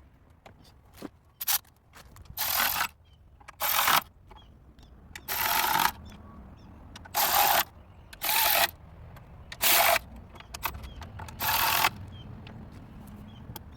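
Hand-tool work on a car engine during reassembly: about eight short rasping bursts, each under a second, spaced a second or so apart, with light clicks between them.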